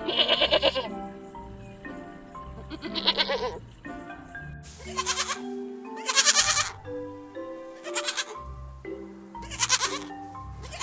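Goat bleating again and again, short quavering calls every second or two, over background music.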